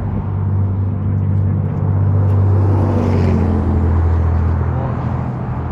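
A car running on the road: a steady low engine drone with road noise, swelling slightly in the middle.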